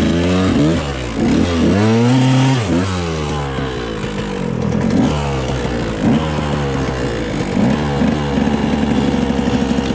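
Dirt bike engine revving hard, its pitch climbing and dropping several times in the first three seconds, then running lower and steadier with short throttle blips.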